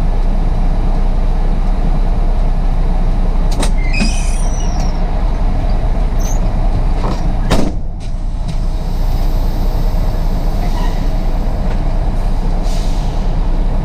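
Truck's diesel engine running steadily. A short high squeal comes about four seconds in, and a sharp knock about halfway through.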